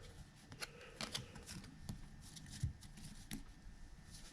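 Faint, irregular clicks and soft flicks of a stack of baseball trading cards being handled and flipped through.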